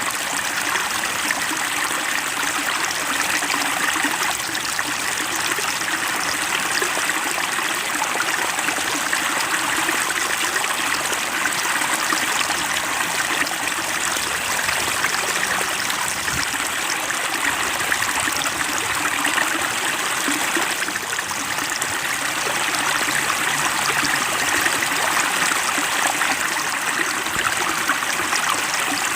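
Steady trickling and splashing of water in a fish pond, an even, unbroken babble.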